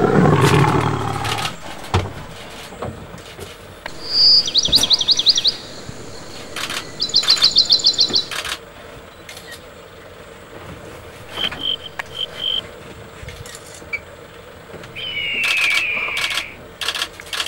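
Birds calling in the wild: two rapid high trills, a few short piping notes, then a falling whistle. A lion's low call fades out in the first second.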